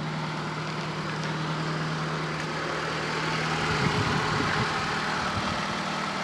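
Fiat Panda 4x4 Sisley's engine idling steadily while warming up after a cold start below freezing. A low steady hum within the sound cuts out about four seconds in.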